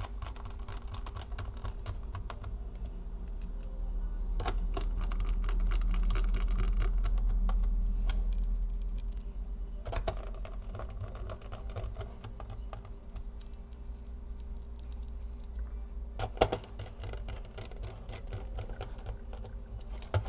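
Small screws being driven back into a laptop case with a precision hand screwdriver: a steady stream of light clicks and ticks. A low rumble swells from about four to nine seconds in, and there is a sharper knock about sixteen seconds in.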